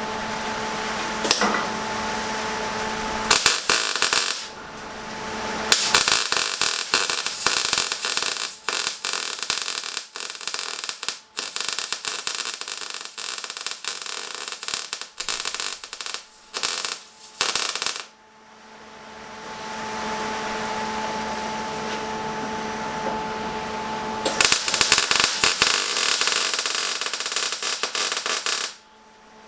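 Electric welding arc crackling and sizzling in bursts: a short one about three seconds in, a long run of about twelve seconds, and another of about four seconds near the end. Between them a steady machine hum. This is a crack in the ride-on mower being welded up.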